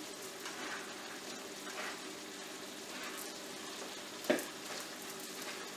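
Chicken and vegetables sizzling in a skillet, their sauce just thickened with a cornstarch slurry, as they are stirred. A utensil knocks sharply against the pan once about four seconds in.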